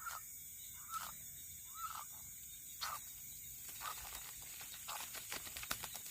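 An animal gives a short rising-and-falling call about once a second, over a steady high trill of night insects such as crickets. The calls fade out, and a few sharp clicks come near the end.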